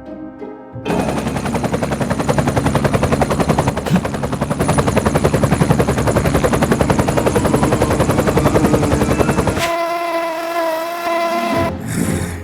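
Fly buzzing sound effect, greatly amplified: a loud, rough buzz with a fast, even flutter that starts about a second in and runs for about nine seconds, then drops to a thinner, wavering tone near the end.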